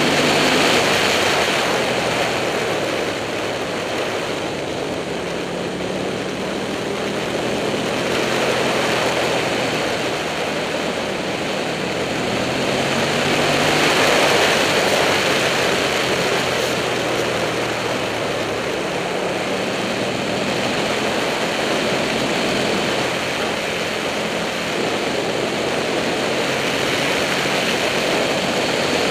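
Heavy wind noise buffeting the helmet-mounted camera's microphone at riding speed, with the Buell 1125R's V-twin engine running underneath. The wind rush swells louder a couple of times.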